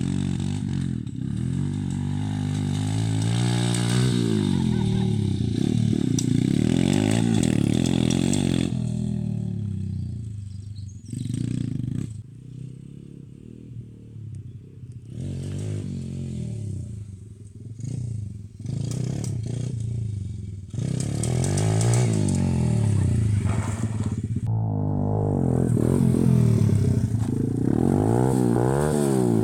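Lifan 110cc pit bike's single-cylinder four-stroke engine running and revving up and down again and again, dropping quieter for several stretches in the middle.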